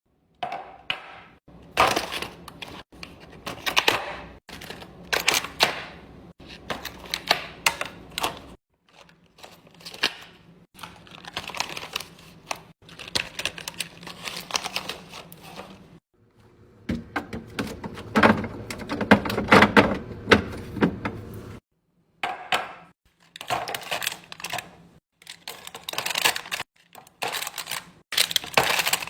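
Restocking handling sounds: a run of sharp clicks, taps and thunks as packaged items and plastic containers are set down, opened and arranged. A denser stretch of rustling and clatter comes about two-thirds of the way through.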